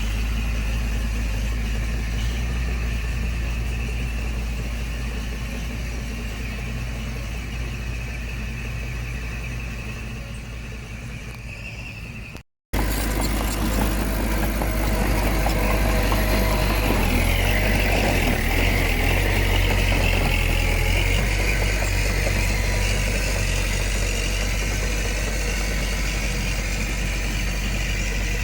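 Diesel engine of heavy earthmoving machinery running steadily. It breaks off briefly about halfway through and comes back louder.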